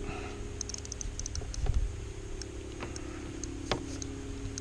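Small clicks and knocks of fishing gear being handled in a kayak while working at a snagged lure, with a dull thump a little under two seconds in and a sharper click near the end. A steady low hum runs underneath.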